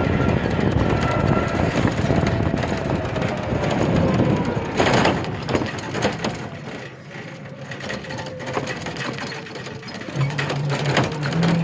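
Motor vehicle running, with a faint tone that falls slowly over several seconds and a sharp knock about five seconds in.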